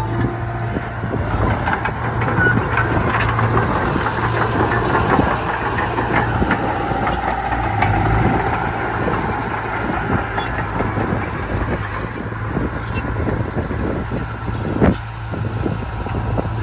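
Heavy diesel earthmoving machinery at work: an engine running steadily with a constant low hum, with rattling and clanking throughout and a sharp knock about fifteen seconds in.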